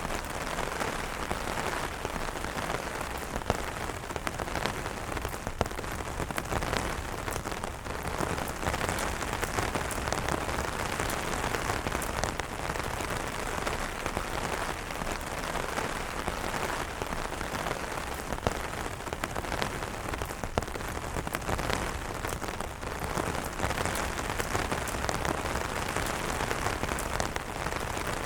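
Steady rain falling on umbrellas: a dense, even patter of drops striking the taut fabric, with occasional louder single drops standing out.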